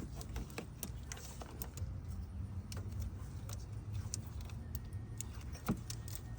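Scattered light clicks and clinks of hand tools and fuel-line fittings being handled and pried at, irregularly spaced, over a steady low background rumble.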